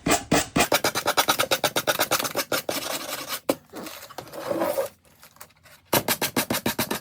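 Sandpaper on a small hand-held finger sander rubbed quickly back and forth over dried decoupage paper on wood, taking off the excess at the edges: fast scratchy strokes, about ten a second. The strokes stop about five seconds in and start again a second later.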